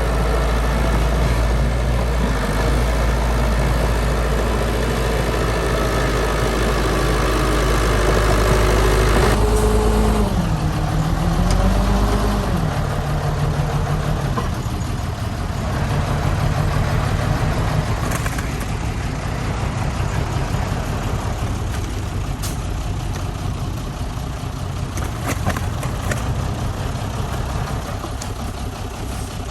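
Heavy diesel construction machinery running, a dump truck or bulldozer engine. About ten seconds in the deep, heavy engine note drops away, and the engine speed dips and climbs for a couple of seconds before settling into a steadier run.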